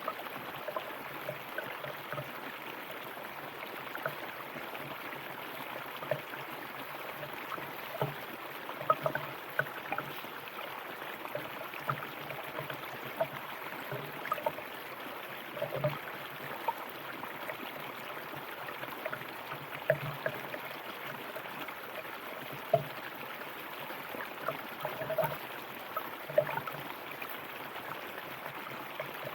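River water running over stones, a steady rush with frequent small gurgles and splashes popping out of it at irregular moments.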